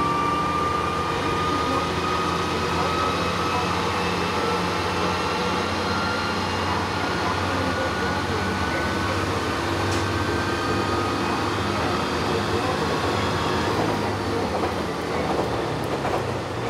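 Inside a diesel railcar running along the line: a steady engine drone and rolling wheel noise, with a thin high whine that slowly rises in pitch as the car gathers speed.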